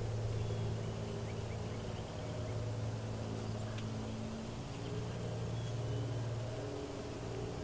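A steady low engine-like hum drones on without a break, with a few faint high bird chirps over it.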